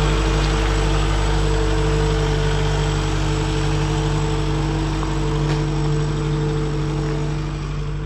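An engine running steadily at idle: a constant low hum with a few held tones, easing off a little near the end.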